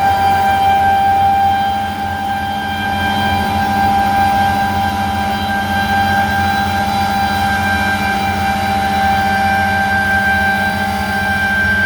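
Heavy farm machinery running steadily at harvest, a low engine drone under a constant high-pitched whine.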